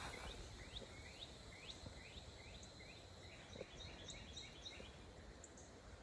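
A bird singing faintly: a run of short, falling notes that come faster toward the end, over a faint low rumble.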